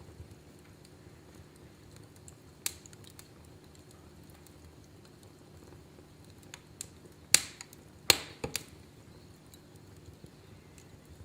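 Wood fire crackling: scattered sharp pops and snaps, the loudest about a third of the way in and a cluster of louder snaps a little after the middle, over a low steady burning murmur.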